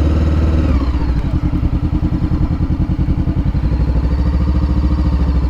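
Honda CBR500R parallel-twin motorcycle engine running. Its revs fall about a second in, and it then runs at low revs with an even, pulsing beat.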